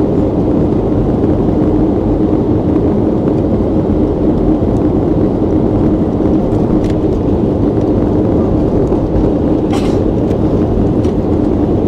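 Boeing 737-800 jet airliner in flight: steady engine and airflow noise with a constant low hum, broken only by a brief click about ten seconds in.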